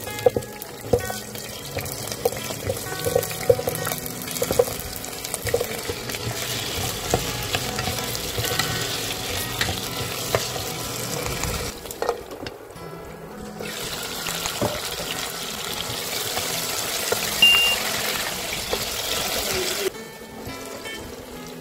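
Carrot and potato chunks sizzling in hot oil in a pot as they sear, with a spatula turning them now and then. The sizzle drops away briefly about twelve seconds in and again near the end, under soft acoustic guitar music.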